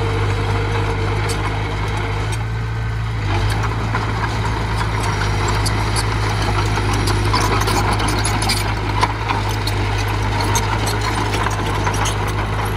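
Small bulldozer's diesel engine running steadily, with metal rattles and clanks from the machine growing more frequent after the first few seconds.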